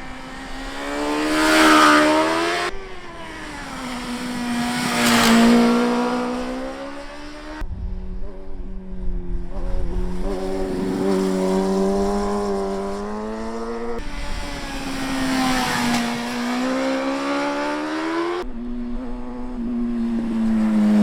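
Superbike engines revving up and down with strongly rising and falling pitch, in several short spliced segments that cut off abruptly every few seconds.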